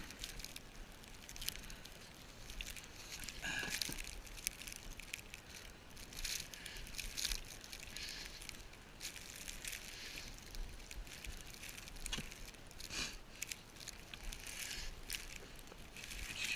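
Footsteps crunching in deep snow, an irregular series of short crunches about one a second.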